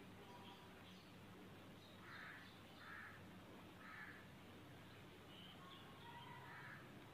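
Near silence with faint bird calls: a few short, rough calls about a second apart, and some faint higher chirps.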